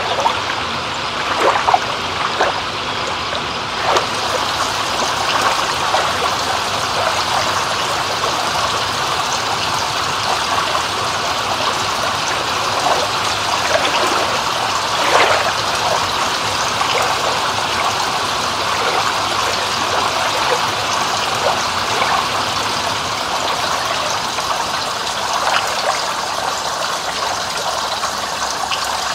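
Water trickling and running steadily, with small gurgles and splashes now and then.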